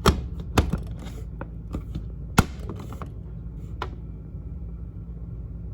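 Steady low hum of a gas furnace running, with several sharp clicks and light scrapes of handling over it. The clicks come right at the start, about half a second in and, loudest, about two and a half seconds in.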